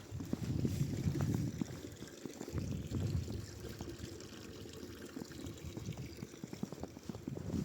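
Water pouring and trickling steadily, louder in the first couple of seconds and softer later on.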